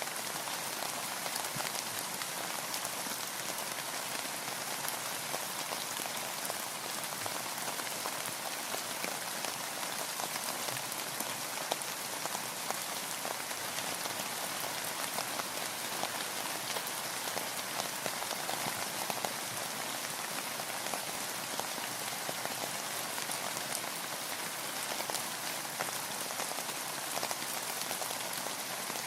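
Steady rain, a dense patter of countless small drops that neither builds nor eases.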